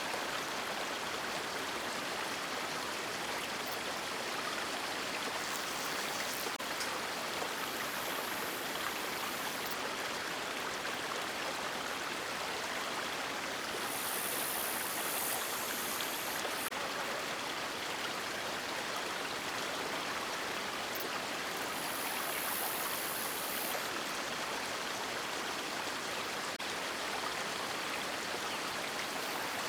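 River water running steadily, a continuous even rush. A faint, very high hiss comes and goes twice.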